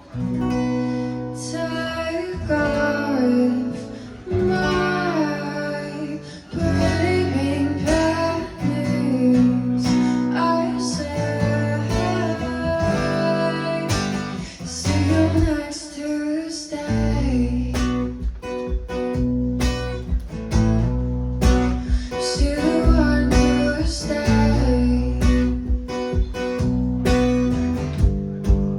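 Live performance of a roots-pop song by a band led by guitar, with bass notes and drums under it and singing coming and going.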